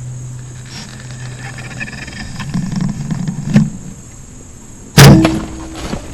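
A sharp, loud knock about five seconds in, with a brief ringing tone after it, over a steady low hum. A smaller click comes a little before it.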